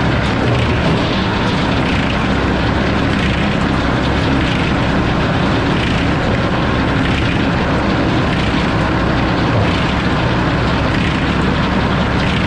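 Sawmill running: a steady, loud mechanical drone of the saw and its power unit, with a low hum underneath.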